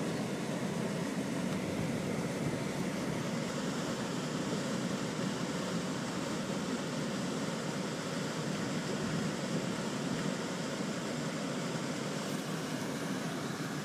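Steady in-car driving noise from a car moving slowly on slushy, icy roads in a snowstorm: engine, tyres and heater fan blended into an even rumble with no distinct events.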